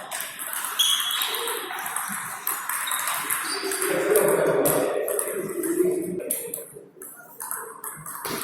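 Table tennis balls clicking off bats and tables in rallies, a run of sharp pings.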